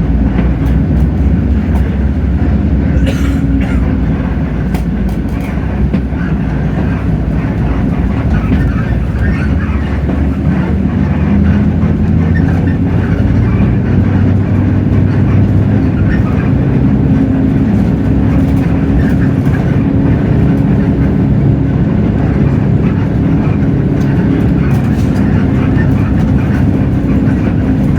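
Hino J08E-VN six-cylinder diesel engine of a city bus running under load, heard from inside the cabin, its pitch shifting up and down a few times with engine speed.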